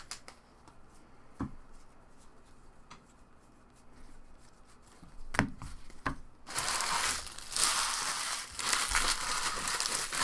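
Trading card pack wrappers crinkling and rustling as packs are handled and opened, starting about two thirds of the way in after a few faint taps.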